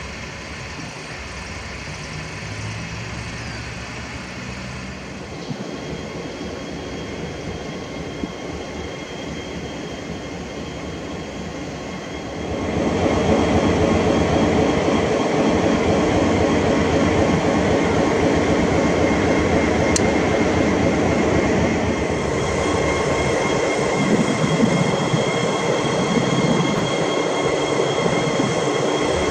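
Pacific National 81 class diesel-electric freight locomotives and intermodal container wagons. A steady diesel engine hum at first, then about 12 seconds in a much louder, continuous rolling rumble of the train with thin high squealing tones from the wheels.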